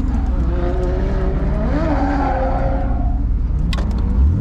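Drift car engine at high revs, its pitch rising and falling, with tires squealing through a slide about halfway through.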